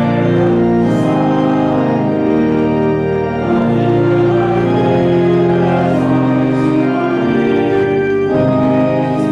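Organ playing sustained chords for the gospel acclamation in a Lutheran service, the chords changing every second or so.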